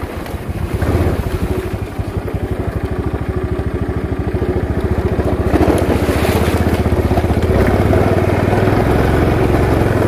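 Small Honda motorcycle engine running at low revs under way, with a choppy, pulsing exhaust beat that the rider likens to a helicopter. It gets a little louder in the middle, then holds steady.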